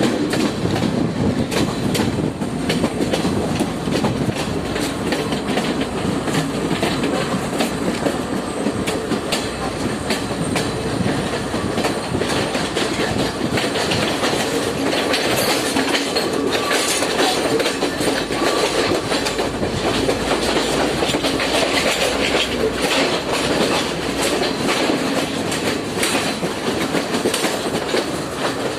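Train running along the track: a steady rumble of the carriages with frequent clicks and knocks of the wheels over the rails.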